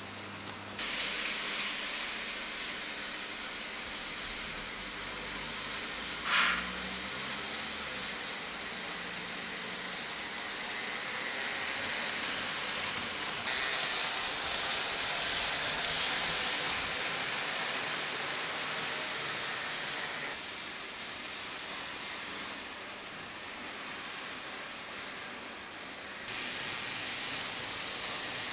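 N-gauge model train (Tobu 100 series Spacia) running along layout track: a steady hissing rumble of small wheels and motor that grows louder and softer as it moves around the layout, with a brief squeal about six seconds in.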